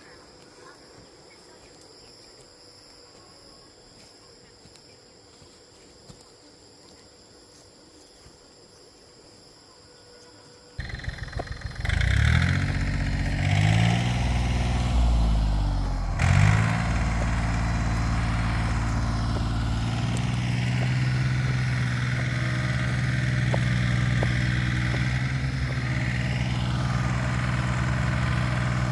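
Faint background for the first ten seconds, then a tractor's diesel engine comes in abruptly about eleven seconds in. It revs up and down several times, then runs steadily under load.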